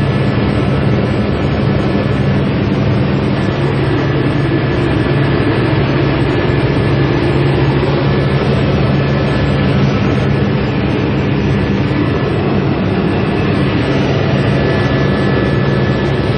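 Helicopter in flight: a loud, steady drone of engine and rotor noise with a faint, steady high whine over it.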